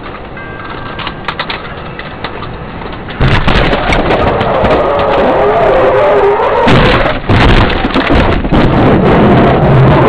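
Car collision heard from inside a car: about three seconds in a sudden, very loud, distorted noise breaks in, full of cracking and rattling, and keeps on to the end with a brief dip in the middle.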